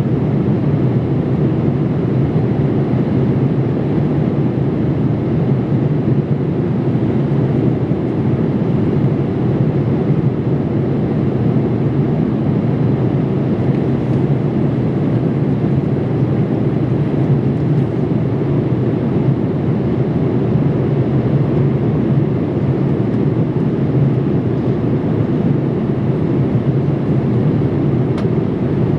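Boeing 787-8 passenger cabin in flight: a steady, unchanging rush of airflow and engine noise.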